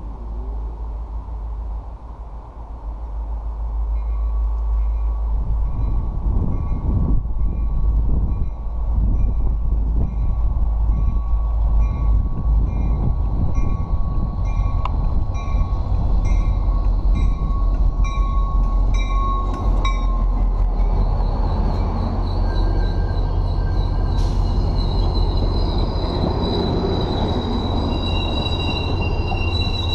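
MBTA commuter rail train arriving at the platform: a deep rumble grows louder a few seconds in, with a high tone repeating at regular intervals during the approach, then high-pitched wheel squeal joins from about two-thirds of the way through as the coaches roll past slowing.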